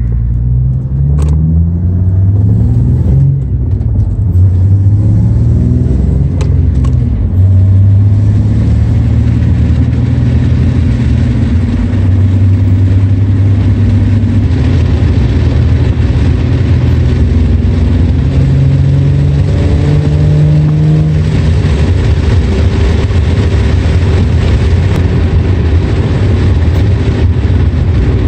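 Ford Mustang engine heard from inside the cabin as the car accelerates through the gears of its manual gearbox. The engine note climbs and falls back at each upshift several times, then settles to a steady cruise, with wind and road noise coming through the open windows.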